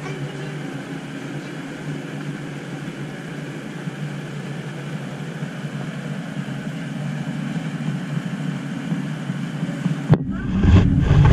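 Cab noise of a driverless elevated light-rail train, a steady hum as it runs into a station and slows. About ten seconds in it changes abruptly to a louder low rumble with a few sharp knocks.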